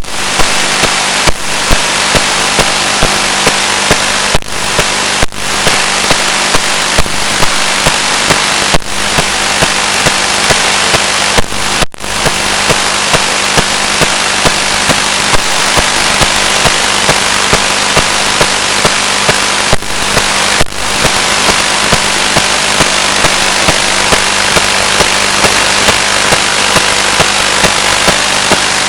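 Static hiss from an analog 1.3 GHz FPV video receiver's audio channel, with a low hum and regular sharp clicks about once a second. A few brief dropouts break the hiss, the deepest about twelve seconds in.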